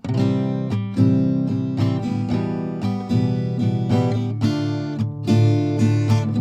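Background music of a strummed acoustic guitar with a steady strumming rhythm, starting abruptly after silence.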